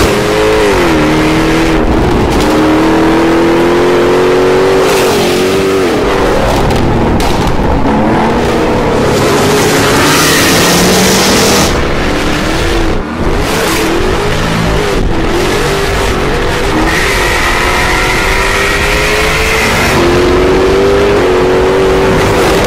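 Jaguar F-Type R coupé's supercharged 5.0-litre V8 through its sports exhaust, pulling hard up through the gears. The pitch climbs steadily and drops sharply at each gear change: about half a second in, around six seconds in, and again near the end. In between it wavers up and down through the bends.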